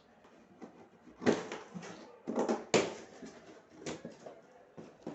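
Irregular knocks and clatters of hard objects being handled and set down, about five of them, the loudest about a second in and near the middle.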